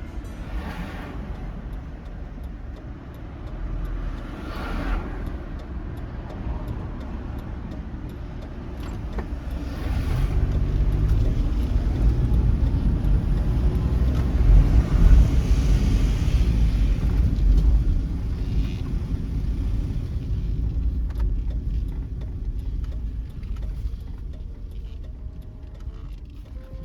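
Road vehicle noise: a low, steady rumble that grows louder through the middle and then eases off, with a few brief whooshes of passing traffic.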